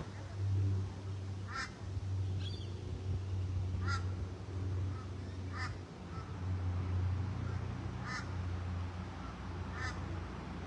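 A bird calling outdoors in short single calls, about one every two seconds, over a steady low hum.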